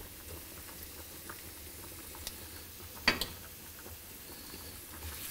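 Sliced red onion frying gently in olive oil with garlic and chilli in a stainless steel pan, a steady soft sizzle and bubble, with a sharp knock about three seconds in.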